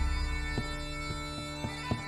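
Bagpipe music: a steady drone under the melody, with short sharp note accents every third to half second. A low rumble at the very start fades within about half a second.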